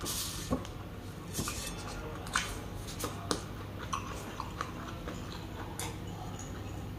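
A person chewing a mouthful of rice, with scattered wet mouth clicks. There is a short brushing rustle at the start as gloved fingers scrape rice grains off the pan.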